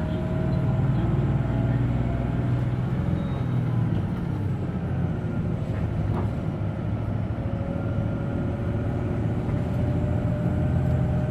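Hino Blue Ribbon City Hybrid diesel-hybrid city bus under way, heard from inside the cabin: a steady low engine drone whose note shifts as the bus changes speed, with a faint thin whine above it.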